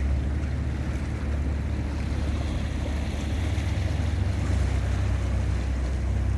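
Sea waves washing, under a steady low rumble of wind on the microphone.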